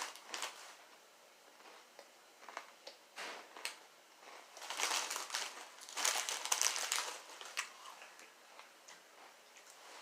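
Potato chips being crunched close up, in several short crackly bursts with quiet gaps between.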